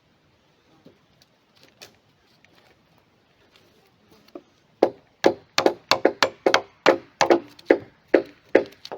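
A tool striking wood, at first only a few faint knocks, then from about five seconds in a fast run of sharp, ringing blows, about three a second.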